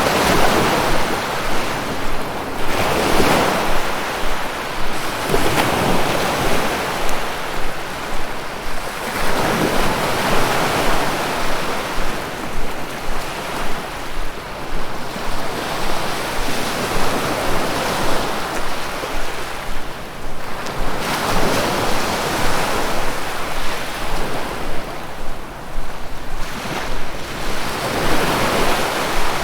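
Ocean waves breaking and washing on the shore, swelling in surges every few seconds, with some wind rumbling on the microphone.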